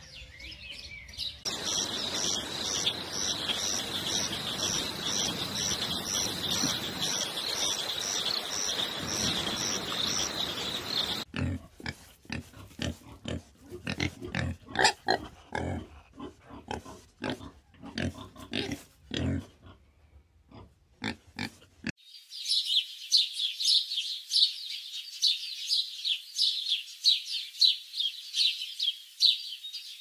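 Animal sounds in turn: a steady high-pitched tone pulsing about twice a second over a hiss, then a run of short, irregular low grunts, then rapid high-pitched bird chirping.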